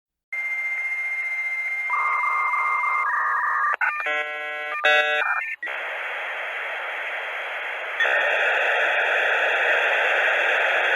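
Dial-up modem handshake over a phone line. A steady high answer tone comes first, then warbling paired tones and a quick run of stepped chiming tones. After that comes a long hiss of scrambled noise that gets louder about eight seconds in.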